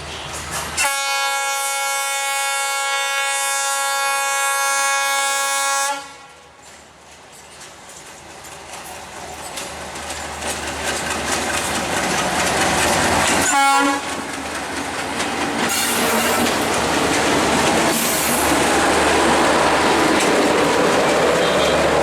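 Diesel locomotive horn sounding one long blast of about five seconds, then a short second blast about 13 seconds in. In between and afterwards, the rumble and wheel clatter of the departing train grow louder as it gathers speed past.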